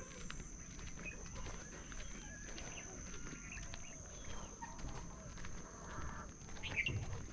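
Rural outdoor ambience: many short, overlapping bird and animal calls, chickens among them, over a steady high-pitched hum, with scattered footsteps on the path.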